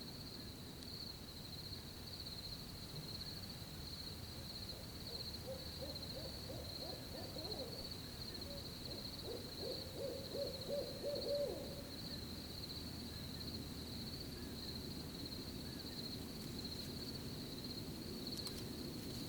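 An owl hooting in a run of calls through the middle stretch, over a steady, continuous high cricket chirping.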